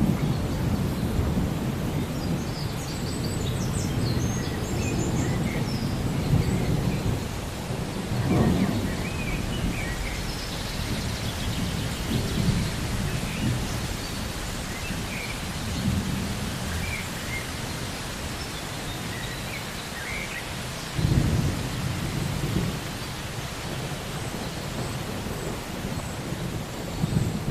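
Steady rain with rolling thunder rumbling underneath, swelling into louder rumbles about 8 seconds and 21 seconds in. Faint high chirps are scattered through it.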